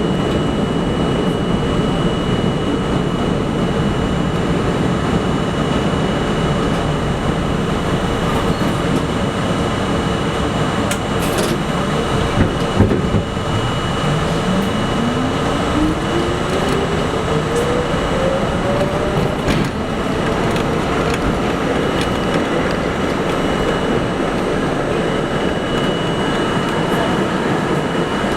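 New York City subway train running, with a steady loud rumble throughout. About halfway through, a motor whine rises smoothly in pitch for several seconds as the train picks up speed.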